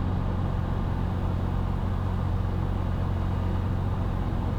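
Cessna 172's piston engine and propeller running at idle power, throttled back on the landing approach: a steady low drone with no change in pitch.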